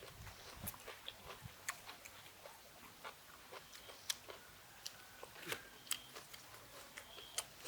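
A person chewing food close to the microphone: soft, irregular mouth clicks and smacks, several a second.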